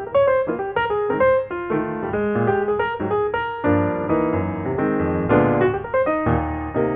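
Background piano music, a run of quick melodic notes over held lower chords.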